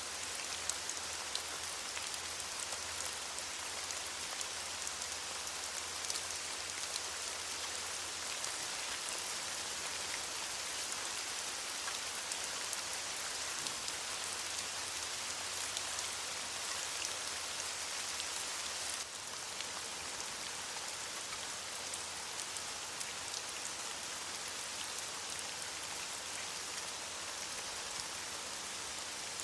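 Steady rain falling on leaves: a dense, even hiss of many small drop ticks. The loudness steps down slightly about two-thirds of the way through.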